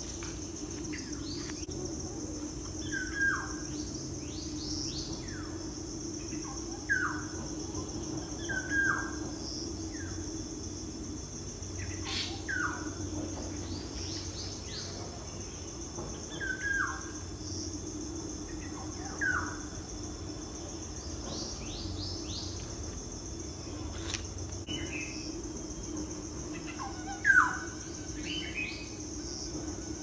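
Wild birds calling: short calls that slide downward in pitch, repeated every few seconds, the loudest near the end, over a steady high-pitched background drone.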